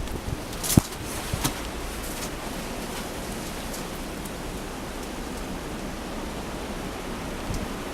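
Steady hiss of blizzard wind and blowing snow, with a sharp tick a little under a second in and a few fainter ticks soon after.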